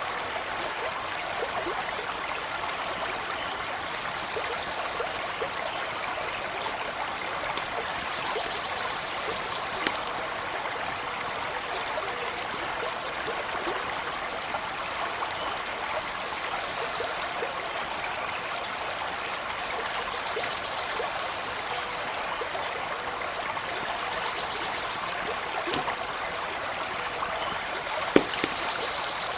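Small stream running steadily over stones, with a few sharp clicks, the loudest two near the end.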